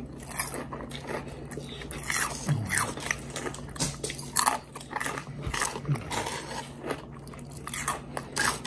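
Chewing and crunching on crispy double-fried hand-cut fries: a series of irregular crunches.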